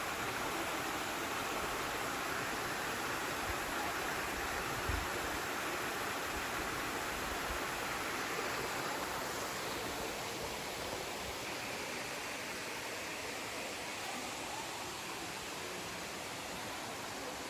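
Steady rush of a waterfall: an even hiss of falling water, easing slightly about ten seconds in.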